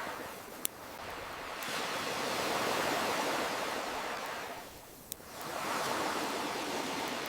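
Ocean waves washing in and drawing back, the rush swelling and fading in slow surges, with two sharp pops from a crackling campfire.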